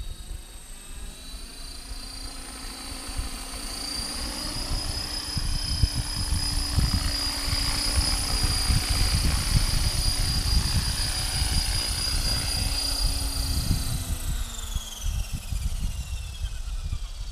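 Electric RC helicopter (HK-500GT with a Turnigy Typhoon 500H brushless motor) flying, with a steady high-pitched motor and gear whine and rotor noise that grow louder a few seconds in. In the last few seconds the whine falls in pitch as the rotor slows. Wind rumbles on the microphone throughout.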